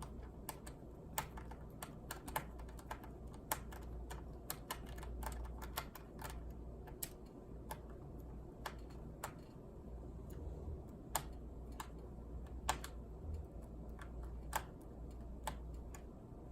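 Irregular light clicks and taps of a small screwdriver and tiny screws on an opened laptop's plastic and metal case, a few a second, over a low steady hum.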